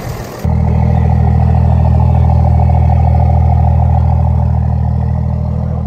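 A vehicle engine runs at a steady speed, loud and deep, cutting in abruptly about half a second in and easing off slightly near the end.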